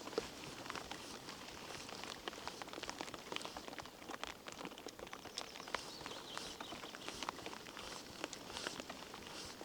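Rain pattering: a dense, irregular scatter of drops ticking over a soft hiss.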